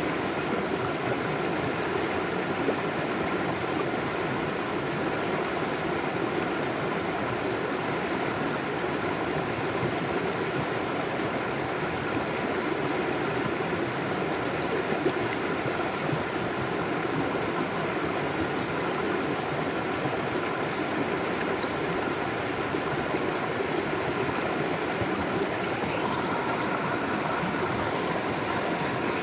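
River water flowing with a steady, unbroken rushing.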